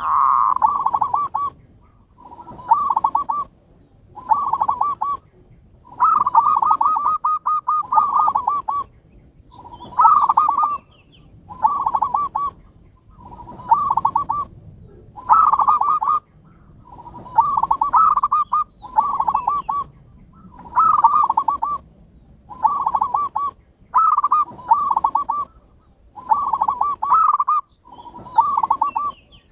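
Zebra dove (perkutut) cooing: phrase after phrase of rapid staccato coos near 1 kHz, each lasting a second or two, with short pauses between.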